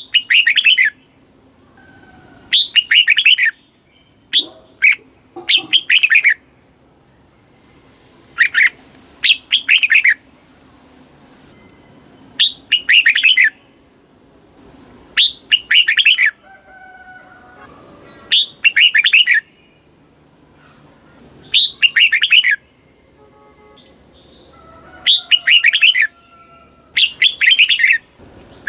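Red-whiskered bulbul singing: loud, quick warbling phrases about a second long, repeated every two to three seconds, with faint thin whistles of other birds in the pauses.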